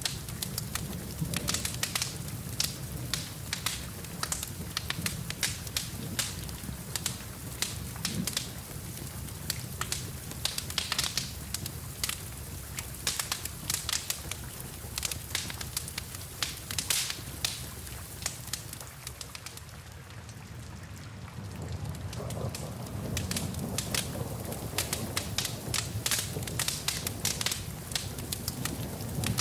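Wood fire crackling in a fireplace, with dense irregular snaps and pops over a steady low rumble, mixed with falling rain. The low rumble eases briefly about two-thirds of the way in, then comes back.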